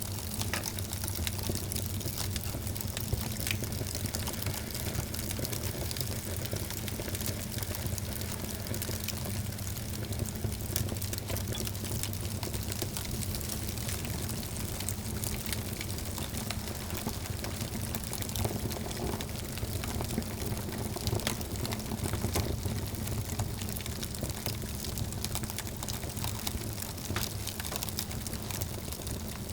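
Wood fire burning in a fireplace: a steady hiss and low rumble with frequent small crackles and pops.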